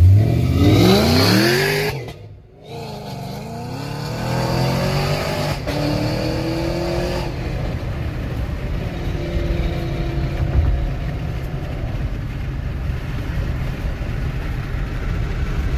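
A car with a Flowmaster exhaust and headers revving hard for about two seconds, the engine pitch climbing fast, then cutting off. After that, steady engine and road noise from inside a moving car, with the engine pitch rising slowly a few times.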